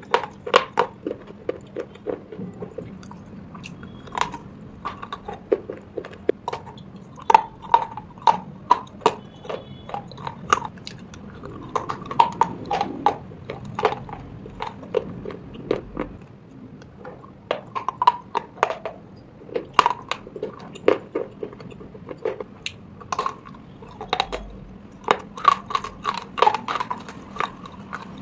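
Close-up crunching and chewing of hard white slate-pencil pieces: a run of sharp, crisp crunches, often several a second, coming in irregular clusters.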